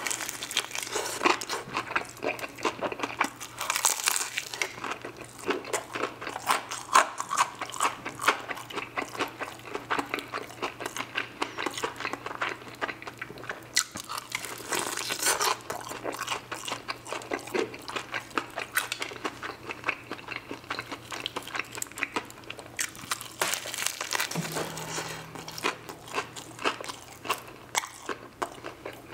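Close-miked biting and chewing of crispy fried chicken: the breaded skin crunches and crackles in a dense, irregular run of small cracks, mixed with wet chewing.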